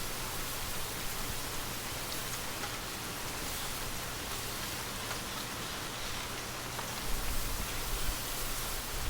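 Steady gentle rain: an even hiss with faint scattered drop ticks. A low rumble builds up near the end.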